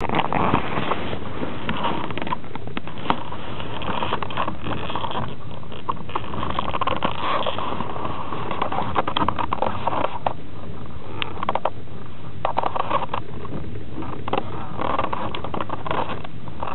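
Passenger train rolling slowly out of a station, heard inside an open-plan sleeper car: a steady rumble of wheels on rail with frequent irregular clicks and knocks.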